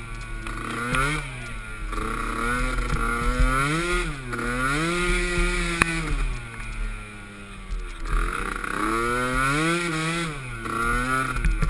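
Small youth-class ATV engine revving up and down over and over as the throttle is opened and rolled off, with a brief sharp click about six seconds in.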